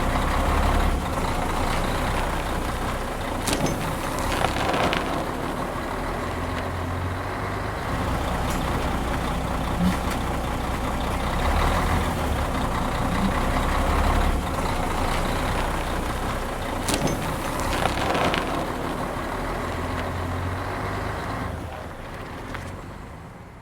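Heavy truck engine running steadily, with a few short sharp sounds over it; it fades out near the end.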